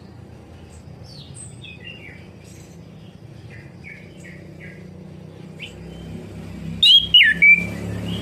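Orange-headed thrush singing: a run of short chirping, whistled notes, then three loud sweeping notes near the end, over a low steady hum.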